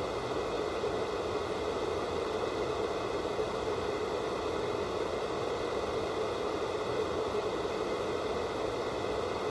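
Analog television static from a set tuned to no signal: a steady, even hiss of white noise that does not change.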